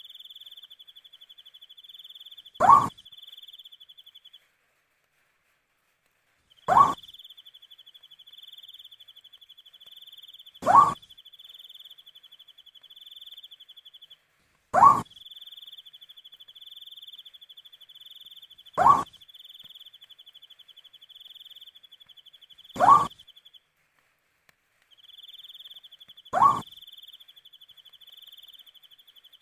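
An owl giving a single short, rising hoot, repeated seven times at an even pace of about one every four seconds. Under it a cricket trills steadily and breaks off briefly a few times.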